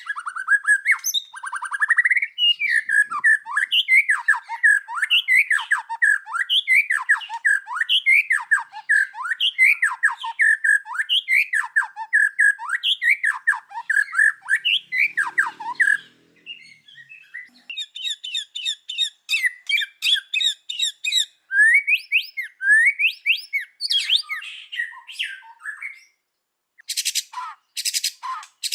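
A white-rumped shama singing a fast, varied song of rapid whistled and rasping notes. After a short pause near the end come a few sharp ticking calls.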